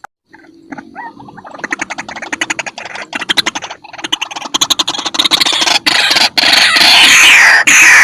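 White-breasted waterhen calling: a fast run of croaking notes builds in loudness over several seconds into loud, harsh repeated calls, each falling in pitch, about two a second.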